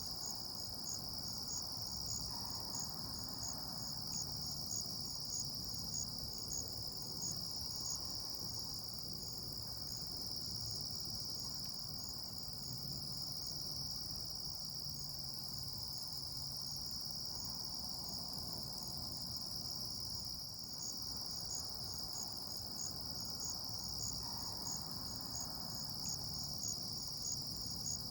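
Chorus of crickets and other insects: a continuous high-pitched trill with a second, rhythmically pulsing call layered just above it, both unbroken and steady throughout.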